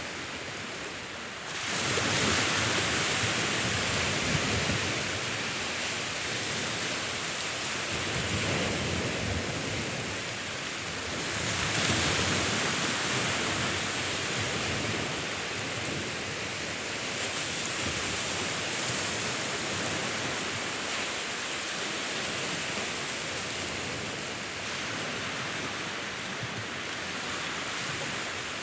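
Sea waves washing on a shore: a steady hiss of surf that swells as a wave breaks about two seconds in and again around twelve seconds, then eases back.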